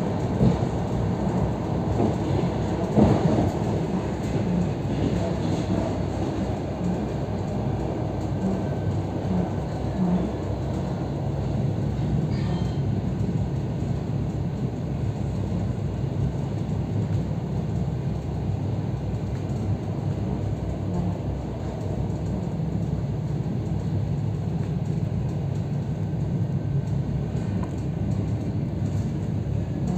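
Running noise of an EP3D electric multiple unit heard from inside a passenger car: a steady rumble of wheels on rail, with a couple of knocks in the first few seconds.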